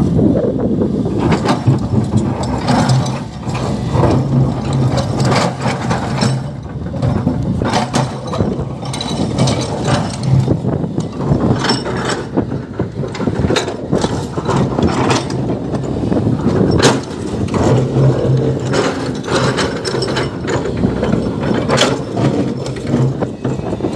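Heavy machinery working at a mine: a large excavator's diesel engine running under load, its hum swelling now and then, with frequent clanks and rattles as soil is loaded into a dump truck.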